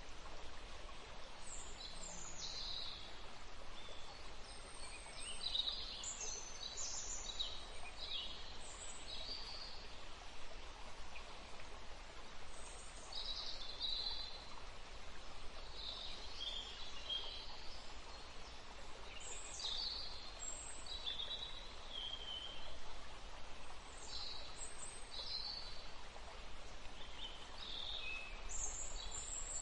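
Birds chirping in short, high, repeated calls, scattered irregularly over a steady background hiss.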